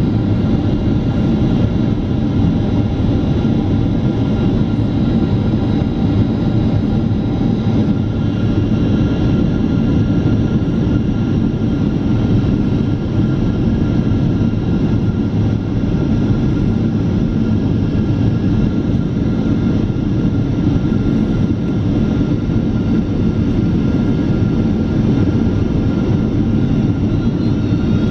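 Steady cabin noise of a Boeing 767-400ER airliner in flight: a constant low rush of engine and airflow, with a few faint steady tones above it.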